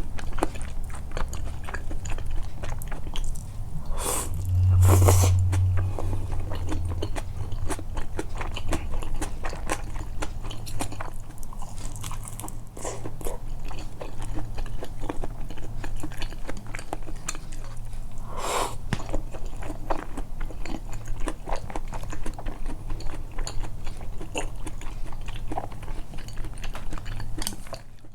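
Close-miked, amplified chewing and biting of a person eating tempura and soba, with many small wet mouth clicks. A few louder, longer eating sounds come about four seconds in and again near eighteen seconds, with a low thud around five seconds in.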